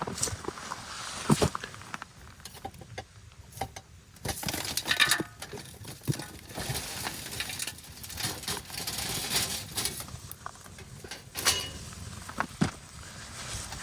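Irregular clinks, knocks and scraping as a campfire is cleared up, embers and metal gear being handled.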